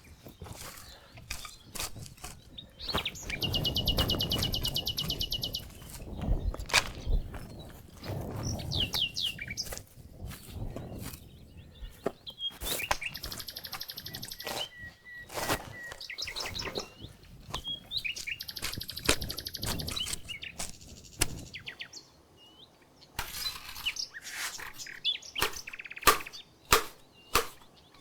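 Songbirds singing in bouts of rapid, evenly repeated high trills with shorter chirps between, against scattered sharp knocks and clicks that are loudest near the end.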